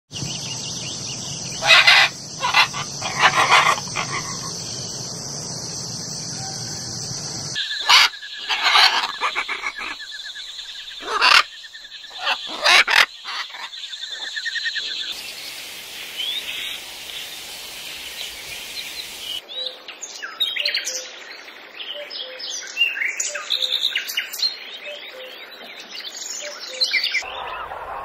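Macaws calling: a series of loud squawks, several in quick succession, a second or so apart. From about two-thirds of the way through, a different bird's rapid chirping and twittering takes over.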